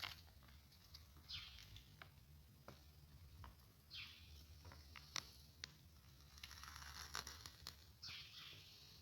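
Faint birdsong: short high calls repeating every second or two, with a few scattered small clicks.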